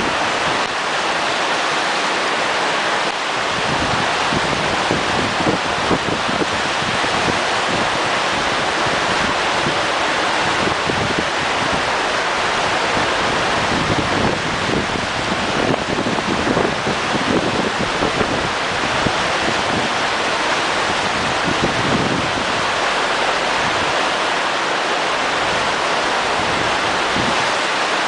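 Steady loud rush of water, with wind buffeting the microphone in irregular gusts for most of the stretch.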